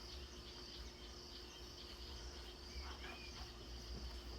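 Faint natural ambience from a wildlife documentary soundtrack playing on a TV: insect buzz and a soft hiss over a steady low hum, with one brief faint chirp about three seconds in.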